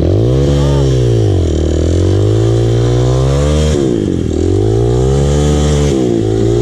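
Dirt bike engine running under throttle: its pitch climbs and holds, falls away about four seconds in, then climbs and falls again near the end.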